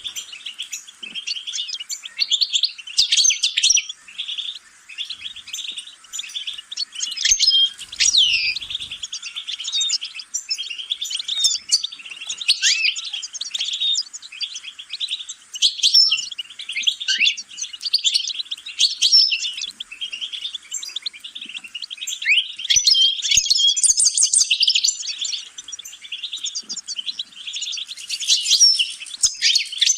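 Songbird singing a long, rapid, twittering song of tinkling notes and quick rising and falling whistles, going on almost without a break apart from short pauses.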